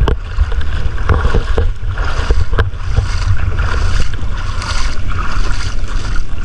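Wind buffeting the microphone at a rough sea shore, a gusting low rumble over the wash of the surf.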